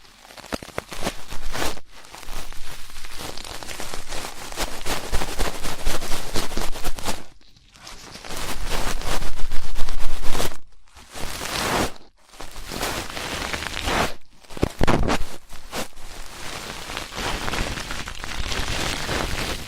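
Close-up scratching and crackling of ear-cleaning tools rubbing in a microphone's ear, in stretches of a few seconds broken by brief pauses, loudest about halfway through.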